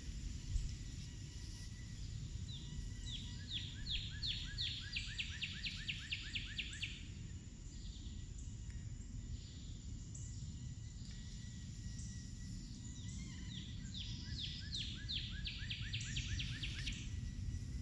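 A songbird sings two runs of quick, repeated downward-sliding notes that speed up, each run lasting about four seconds, over a steady low outdoor rumble.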